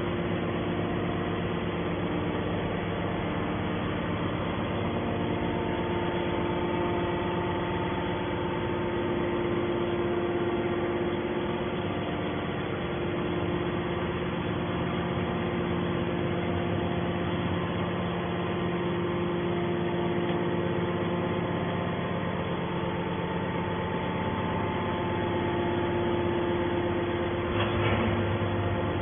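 Hydraulic scrap metal baler's power unit running, a steady machine hum with several steady tones that barely change, and a brief rattle near the end.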